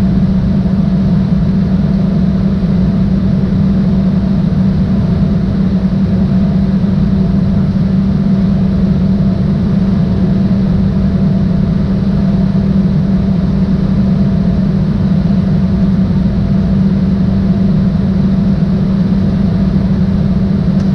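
Steady jet cabin noise inside an Embraer ERJ-175 climbing after takeoff: the drone of its GE CF34 turbofan engines and airflow, a constant low hum with fainter steady tones above it.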